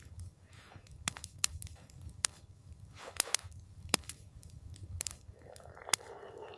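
Campfire crackling: irregular sharp wood pops, about one a second, over a low steady rumble of the burning fire.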